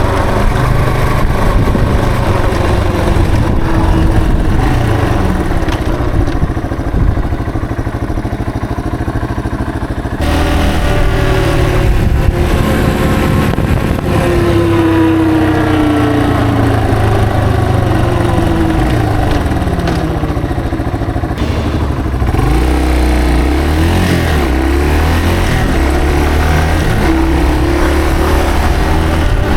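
Yamaha TW225's single-cylinder engine running under a rider, its pitch rising and falling several times as the bike speeds up, shifts and slows.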